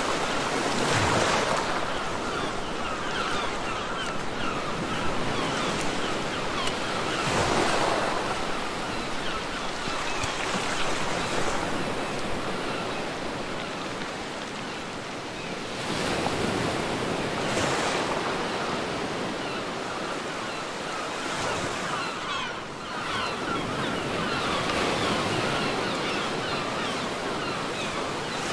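Ocean waves washing onto a beach, with a steady hiss of surf that swells louder every several seconds as each wave breaks and fizzes.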